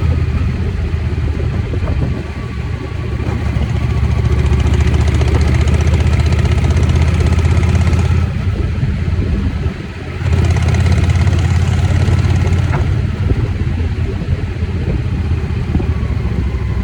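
Motorcycle engine running while being ridden, a steady low drone that eases off briefly about two seconds in and again about ten seconds in, then picks up again.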